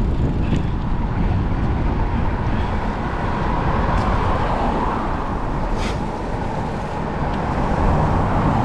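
Steady wind and road noise from riding through traffic, with a brief sharp click about six seconds in.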